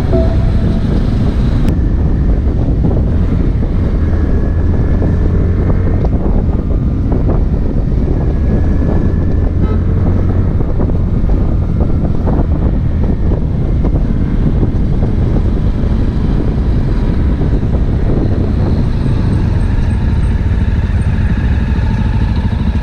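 Motorcycle on the move, its engine running steadily under a heavy, even rush of wind on the microphone.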